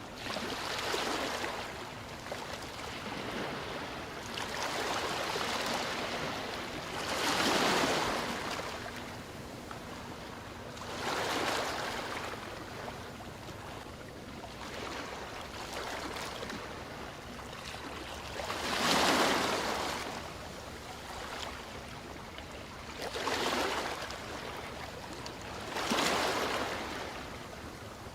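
Ocean surf: waves breaking and washing in, one surge every few seconds over a steady hiss of water, with three surges louder than the rest.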